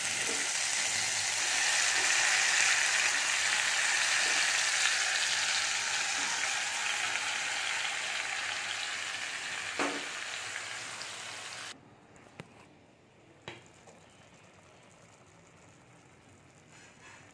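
Marinated chicken sizzling loudly as it fries in hot oil with onions in a pan, the hiss easing off gradually. There is a single knock a little before the sizzle cuts off abruptly about twelve seconds in, leaving a quiet background with a few light clicks.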